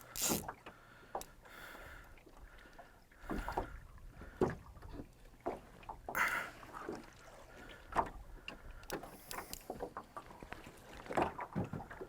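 Small boat on the water during a fish fight: scattered knocks on the hull and splashes of water against it.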